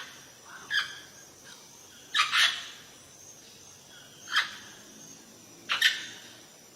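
A bird giving short, harsh squawks, one every second or two, one of them doubled, over a faint steady high hiss.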